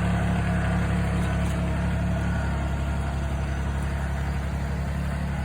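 Tractor engine running steadily while it tows a brush lawn sweeper through leaves, a low, even drone that grows slightly fainter.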